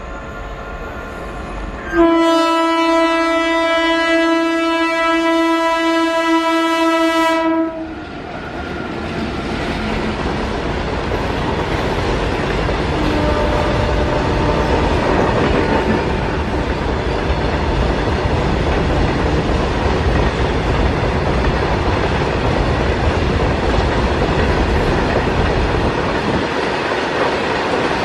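WAG7 electric freight locomotive sounding its horn, one long steady note of about five and a half seconds starting about two seconds in and cutting off sharply. Then the rumble and wheel clatter of a long train of BOXN open freight wagons rolling past.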